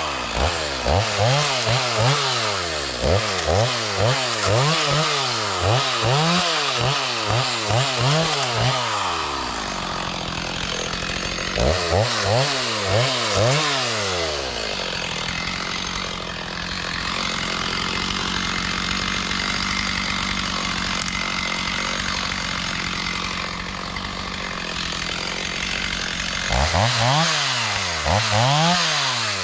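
Two-stroke chainsaw revved up and down in quick, repeated bursts while cutting back brush and small trees, about one rev a second. It drops to a steady idle for a long stretch in the middle, then revs in bursts again near the end.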